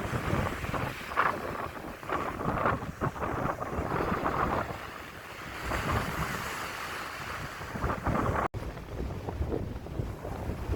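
Strong wind buffeting the microphone over the rush of sea waves, the gusts rising and falling, with a momentary cut-out in the sound about eight and a half seconds in.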